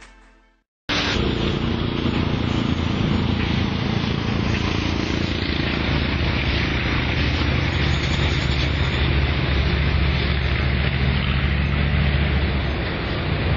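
A motor vehicle's engine and exhaust running steadily. It cuts in abruptly about a second in, with a steady low engine note under a broad rushing noise.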